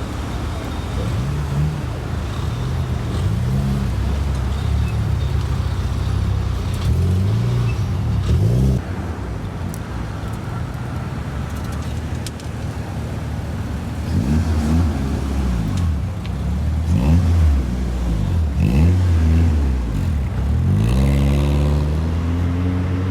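Car engines revving and pulling away, their pitch rising and falling again and again, with a run of quick revs in the second half.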